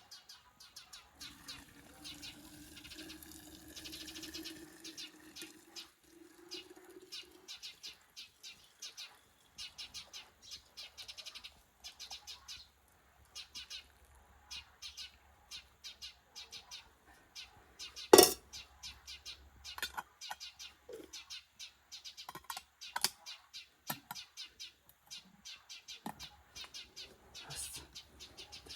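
Small birds chirping repeatedly, with a low steady hum for the first several seconds and one sharp loud knock about eighteen seconds in.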